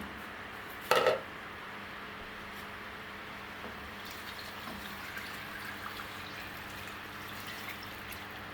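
Fresh water being poured into a cooking pot of salt mackerel as the salty soaking water is changed: a steady hiss of running water, with one short clunk about a second in.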